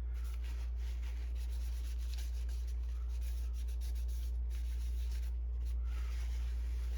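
Paper towel wiping and rubbing over a plastic ink cartridge in short irregular strokes, over a steady low hum.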